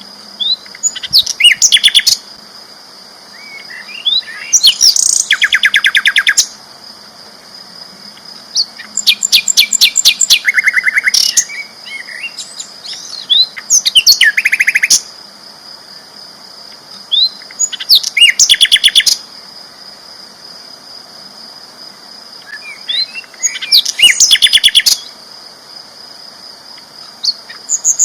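Sikatan londo flycatcher singing loud phrases of rapid repeated notes, each lasting a second or two and coming every few seconds, over a steady high-pitched hum.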